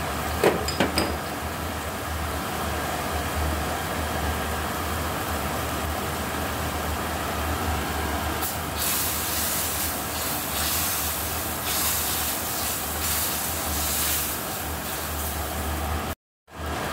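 Spice paste sizzling in a stainless steel wok over a steady low hum, with a couple of sharp taps about half a second in. The sizzling hiss grows louder about halfway through, and the sound cuts out briefly near the end.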